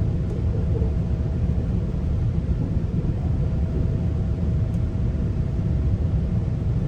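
Steady low rumble of a GO Transit commuter train coach running between stations, heard from inside the coach, with a faint steady hum over it.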